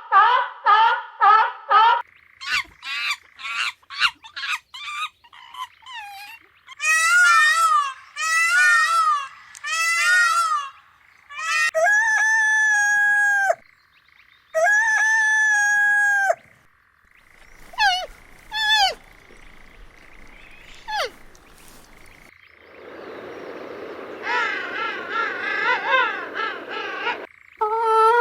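A run of different animal calls, one kind after another with short gaps: quick repeated chirps, several long warbling calls, two long steady calls, then short sharp calls and a noisier warbling stretch near the end.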